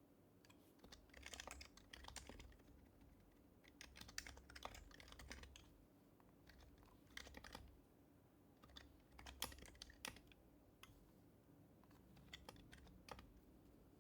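Typing on an HHKB Professional HYBRID Type-S keyboard, with its quiet, damped Topre electrostatic-capacitive keys. The key clicks come in five short bursts with brief pauses between.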